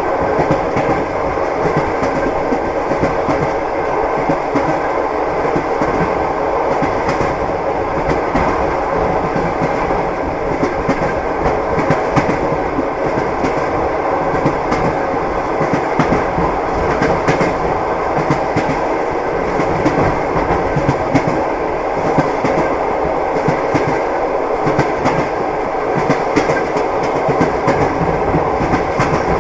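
Passenger train running at speed: a steady rumble with the wheels clicking over the rail joints many times a second.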